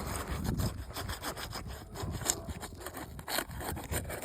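Irregular scraping and crackling as brittle asphalt roof shingles are worked loose by hand, rubbing against the shingles beneath.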